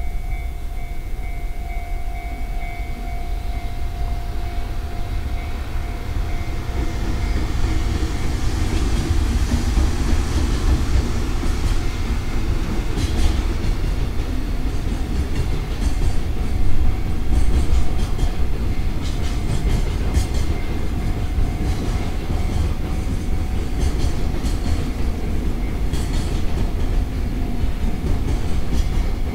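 Container freight train hauled by an EF210 electric locomotive passing, with a low rumble that grows louder over the first several seconds. Once the container flatcars roll by, the wheels clack repeatedly over the many rail joints. A steady high tone sounds in the background at first and fades away.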